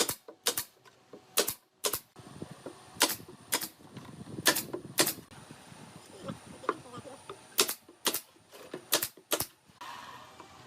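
Nails being driven into pallet wood: sharp knocks in quick pairs about half a second apart, about a dozen in all, with a pause in the middle.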